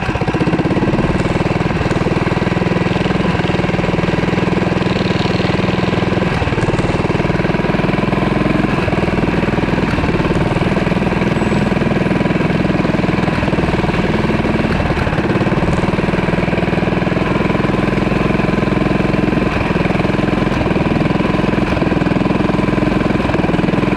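Mini bike's small engine running at a steady speed.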